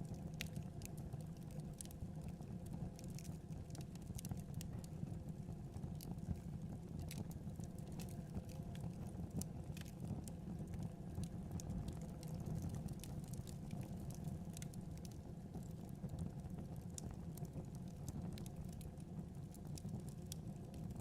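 Wood fire burning in a fireplace: a steady low rumble of flames with irregular crackles and pops, several a second.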